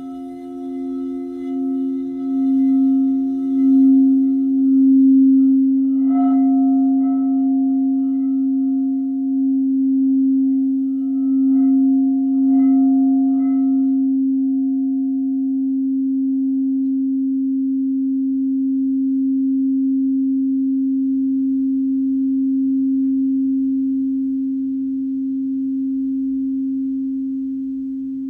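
Singing bowl ringing in a steady, sustained low hum that pulses at first, with a second higher tone dying away. A few light strikes add brief higher ringing tones about six seconds in and again around twelve seconds in.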